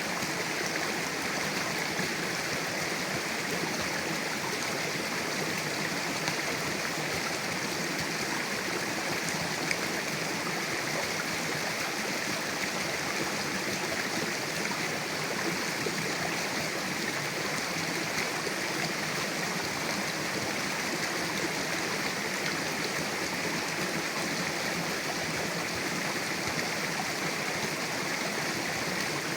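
Mountain river running: a steady, even rush of flowing water.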